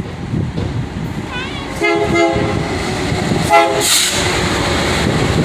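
BNSF locomotive sounding its horn in two short blasts, about two seconds in and again about a second and a half later, over the steady rumble of the train, which grows louder as it comes on.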